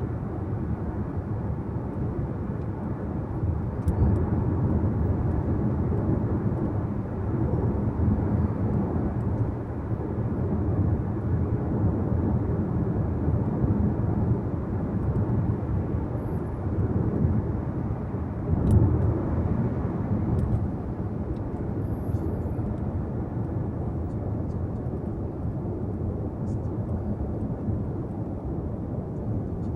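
Steady road noise of a car driving: tyre rumble and engine hum, muffled as heard inside the car. It swells slightly a couple of times, with a few faint clicks.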